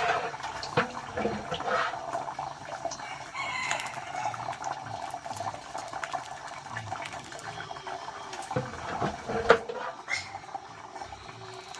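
Chickens clucking, with scattered knocks and clatter from work nearby; the sharpest knock comes about nine and a half seconds in.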